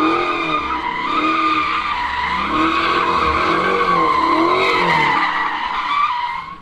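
Car tyres spinning and squealing in one long continuous skid, with the engine revs rising and falling about once a second underneath. The squeal fades out near the end.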